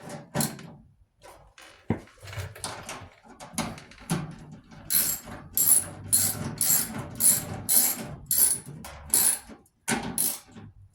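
Socket ratchet wrench clicking as it turns a bolt on a clothes dryer. Irregular clicks at first, then about five seconds in a steady run of quick ratchet strokes, about two a second.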